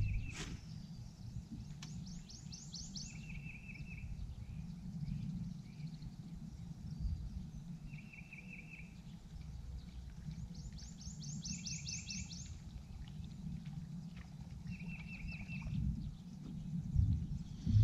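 Birds singing: one repeats a short trill every few seconds, and another gives a quick run of high notes twice. A steady low rumble runs underneath.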